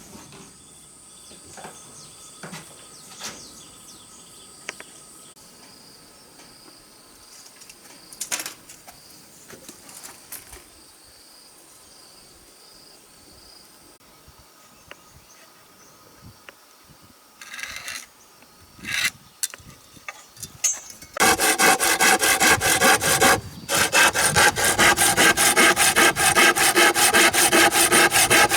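A fairly quiet stretch with a few scattered knocks and a faint high steady tone. Then, about 21 s in, a saw starts cutting through wood in quick, steady strokes, pausing briefly once.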